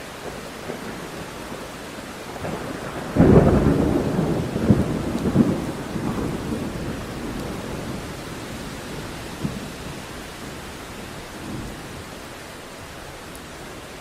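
Steady rain with a thunderclap that breaks suddenly about three seconds in and rumbles away over several seconds.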